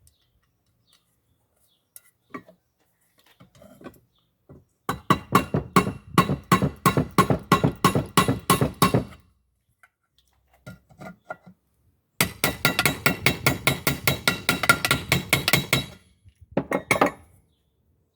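A hammer striking a metal pan with rapid light blows, about five a second, in two runs of about four seconds each and a short burst near the end: a handle being riveted onto a pan.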